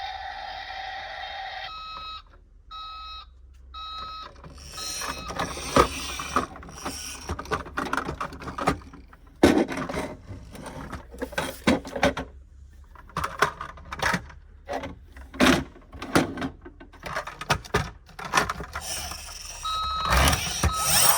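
Electronic sound effects of a plastic toy semi-truck: a repeating reverse-warning beep, then a long run of sharp plastic clicks and knocks from the toy being handled, with the beeping coming back near the end.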